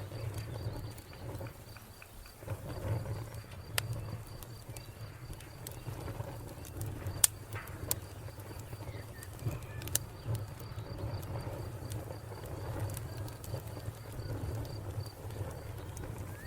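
Wood fire crackling, with a few sharp pops over a low rumble of flames, while a cricket chirps in an even pulsing rhythm.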